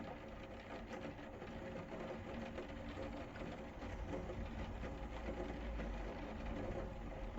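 Rain pattering, a dense run of small drop ticks, over a steady low hum; a deep rumble grows in from about two seconds in.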